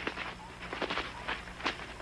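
Irregular light taps and rustles, about three or four a second, as a jacamar beats a caught morpho butterfly against its perch to strip off the wings, over a faint steady low hum.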